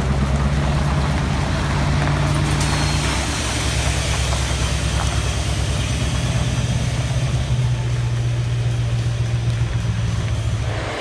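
A large vehicle's engine running steadily at a low pitch. Its note shifts slightly about three seconds in and again a few seconds later.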